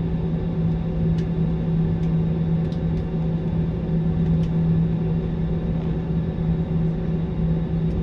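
Steady drone and low rumble inside an airliner cabin, with a few faint clicks.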